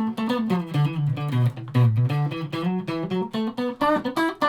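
Electric guitar, a multi-pickup Stratocaster, played as a quick run of single picked notes over a moving low line. Its pickups are switched in phase and in parallel, the fifth sound in this bank of the 105-sound switching demo.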